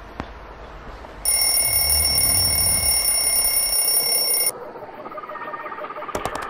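Electronic alarm giving one steady, shrill tone for about three seconds, switching on and cutting off abruptly, after a single click.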